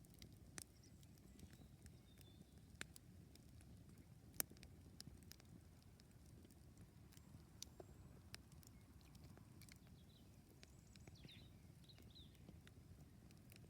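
Campfire crackling faintly: scattered sharp pops and snaps, the loudest about four seconds in, over faint low background noise.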